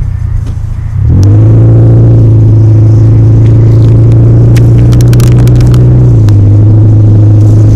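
A car's engine and road drone heard inside the moving vehicle: a loud, steady low hum that settles slightly lower about six seconds in, with a few light clicks along the way.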